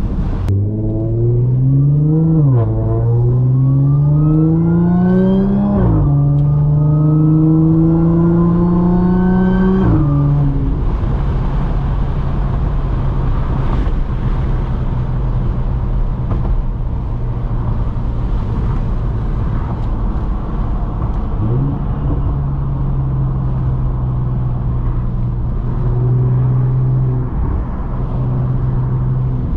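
Audi S4 B8.5's supercharged 3.0-litre V6 through test pipes and an AWE downpipe and cat-back exhaust, accelerating hard through three gears, the note climbing and dropping at each upshift. From about ten seconds in it settles into a steady cruise, with road and wind noise throughout.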